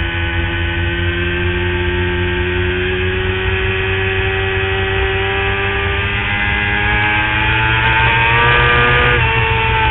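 Motorcycle engine heard from an onboard camera, accelerating under load. Its pitch climbs slowly, then faster, and drops sharply near the end at an upshift before climbing again.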